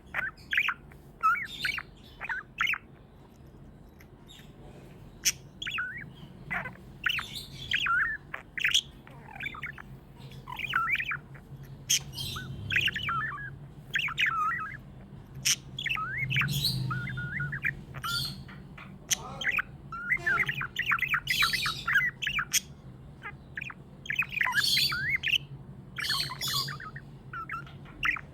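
Pet budgerigars chirping and squawking in quick, irregular runs of short warbled calls, with a brief lull a few seconds in. A low steady hum runs underneath.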